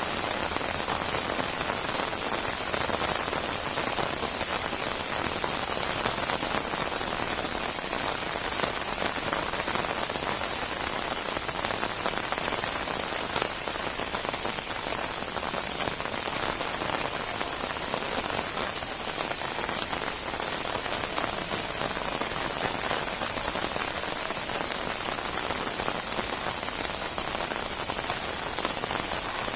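Rain from a rainstorm, falling steadily: an even hiss with no breaks and no thunder.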